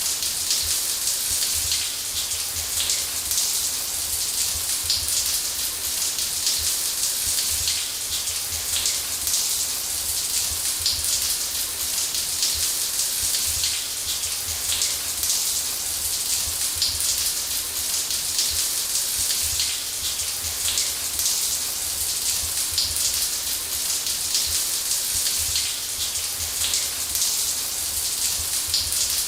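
Shower running steadily: an even, unbroken hiss of falling water spray, strongest in the high range, with a faint low rumble underneath.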